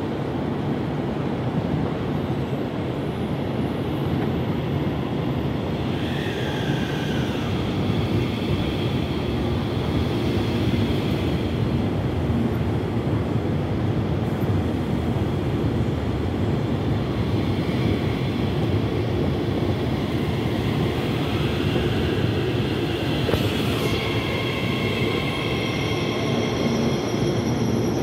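Electric commuter train running alongside a station platform: a continuous low rumble of wheels and motors. A high-pitched whine comes in about six seconds in, with one tone falling in pitch, and returns near the end, where it comes just after a short sharp hiss.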